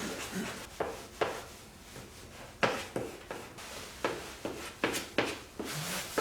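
Short, irregular scrapes and clicks, about two a second, from handling work while applying a vinyl transfer sticker to an ATV's plastic bodywork.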